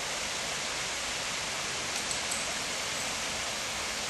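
Small waterfall in a woodland reserve, water falling with a steady, even rushing hiss that does not change.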